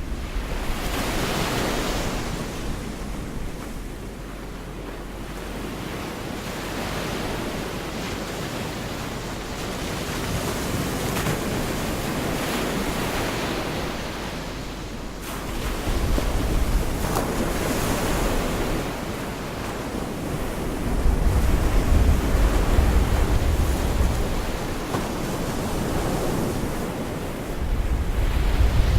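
Gulf of Mexico surf breaking and washing onto the beach in repeated swells. Wind buffets the microphone with a low rumble in the second half.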